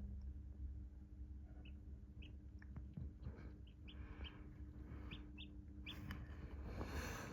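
Newly hatched chicks peeping inside an incubator: many short, high cheeps scattered through, over a steady low hum. A brief rustle near the end.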